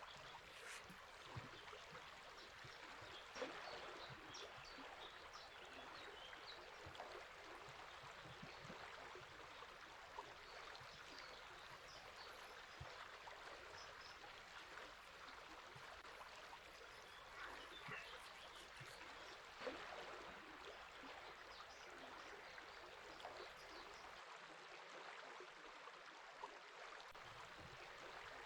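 Faint, steady burbling of river water, with small splashes and pops scattered through it.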